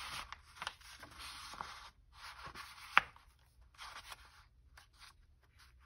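Paper rustling and scraping as a sheet is handled and slid into place, with one sharp click about three seconds in; shorter rustles follow.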